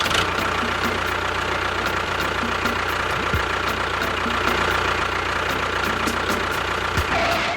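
Engine running steadily at idle, starting and stopping abruptly.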